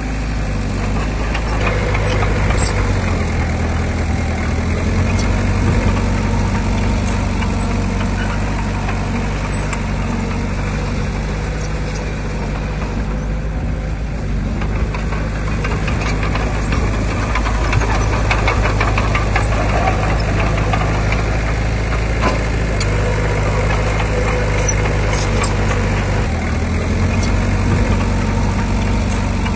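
Heavy diesel engine of earthmoving machinery running steadily, its engine speed shifting up and down several times, with scattered clanks.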